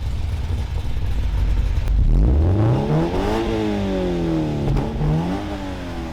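Subaru BRZ's flat-four engine revving. After a low rumble it climbs steeply in pitch for about a second and a half, falls back more slowly, then gives one short blip.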